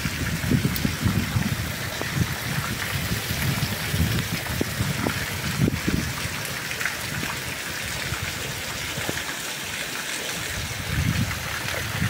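Heavy rain falling in a steady hiss, with low rumbles that swell and fade irregularly.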